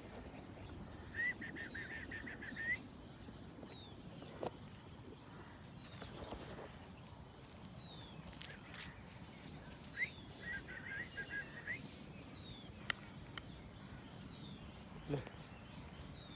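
Birds chirping on and off over faint outdoor background noise. Short falling chirps recur throughout, with a brief rapid trill about a second in and another about ten seconds in, and a few soft scuffs.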